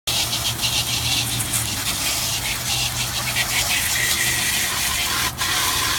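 Water spraying steadily against a refrigerator being washed, a continuous hiss, with a steady low hum underneath.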